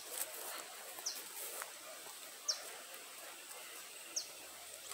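A bird calling three times, each a short, high note that falls in pitch, about a second and a half apart, over faint outdoor hiss.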